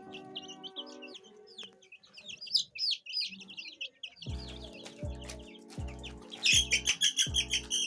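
Young chickens peeping and clucking in a run of short high calls, busiest and loudest in a quick burst near the end, over background music whose bass beat comes in about halfway through.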